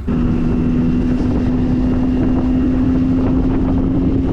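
Boat's outboard motor running under way at speed. Its steady engine tone creeps slightly up in pitch.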